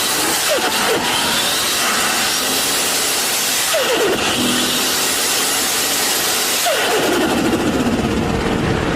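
Turbocharged car accelerating hard through the gears. A high whistle rises between shifts, and the engine note drops at three gear changes about three seconds apart.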